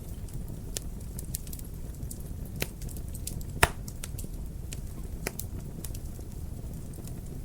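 Wood fire in a fireplace crackling, with a steady low rumble of flame and scattered sharp pops, the loudest two about a second apart in the middle.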